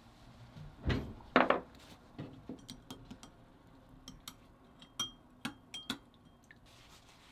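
Kitchen utensils and dishes knocking and clinking during food preparation: two louder knocks about a second in, then a string of lighter clicks and clinks, a few with a brief ring.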